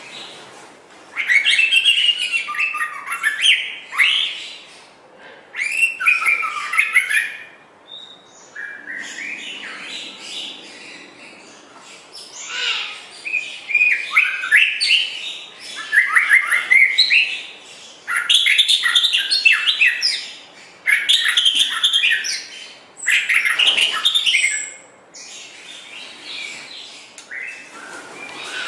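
White-rumped shama (murai batu) singing: varied phrases of quick whistles and trills, each lasting one to four seconds, separated by short pauses.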